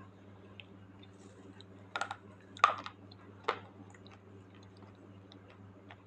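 Slate pencil being bitten and crunched between the teeth: three sharp crunches about two, two and a half, and three and a half seconds in, the middle one loudest, with a few faint ticks between.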